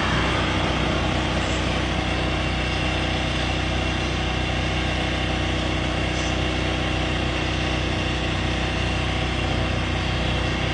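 An engine running steadily at idle, an even, unchanging hum.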